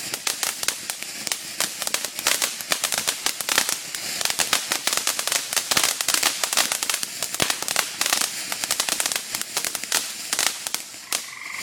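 Consumer fireworks crackling: a rapid, irregular run of sharp pops and cracks, several a second, that eases off near the end.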